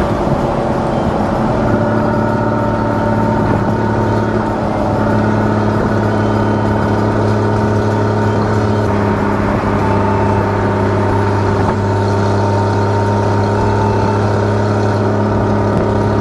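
Porsche Boxster 981's naturally aspirated flat-six engine and stock exhaust, driving under way. It settles into an even drone about two seconds in and holds constant revs.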